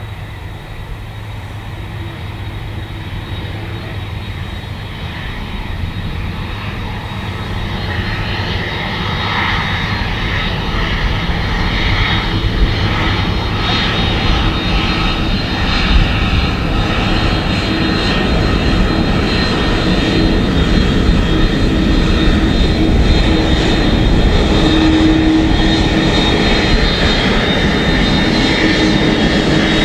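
Airbus A330-200 twin-engine jet airliner on approach to land, its engine noise growing steadily louder as it nears. There is a low rumble with a steady high whine over it.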